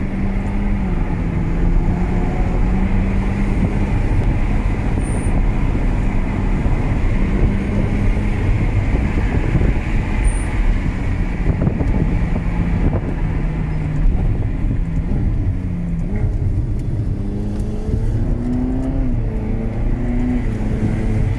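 Ferrari California's naturally aspirated 4.3-litre V8 under way uphill, heard from inside the cabin: a steady engine note that dips and swells with the throttle and climbs in pitch near the end, over tyre and road noise.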